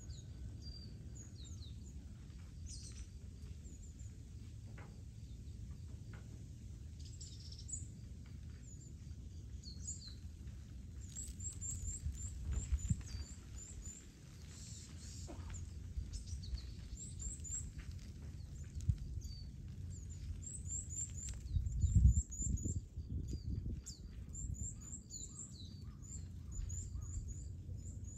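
Small birds chirping in quick, high calls, coming thicker in the second half, over a steady low rumble that swells to its loudest about 22 seconds in.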